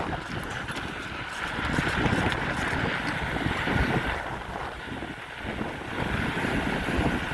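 Wind rushing over the microphone of a rider on a moving bicycle: a steady, uneven rumble and hiss.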